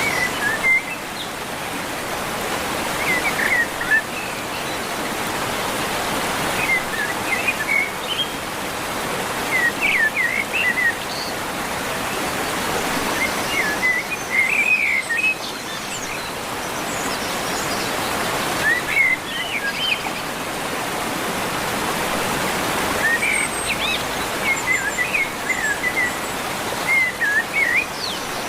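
Birds chirping in short clusters of quick, high calls every few seconds, over a steady rushing noise that slowly swells and fades.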